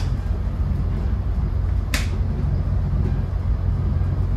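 Caltrain bi-level passenger car running at speed on the rails, a steady low rumble heard from inside the car; a single sharp click about two seconds in.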